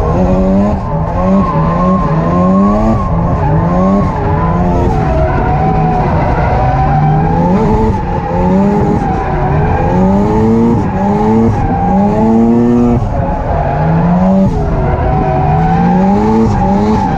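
Mazda RX-8 rotary engine revving hard in repeated rising sweeps that drop back as the throttle is worked, with steady tire squeal from the rear tires sliding through a drift.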